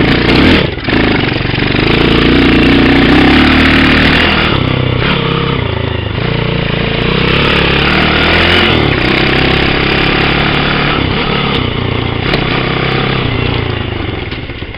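Pit bike engine running hard as the bike is ridden, its pitch rising and falling with the throttle. It cuts out briefly twice in the first second, then pulls steadily, and fades off near the end.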